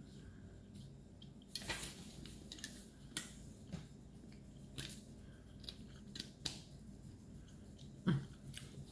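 A person chewing food close to the microphone: irregular short clicks and crackles of chewing and mouth sounds, the loudest near the end.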